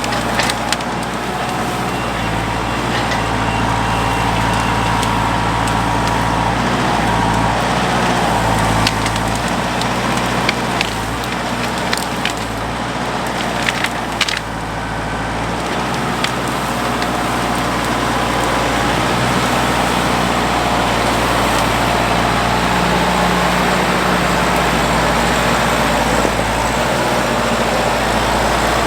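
A heavy engine runs steadily throughout, with a handful of sharp cracks around the middle.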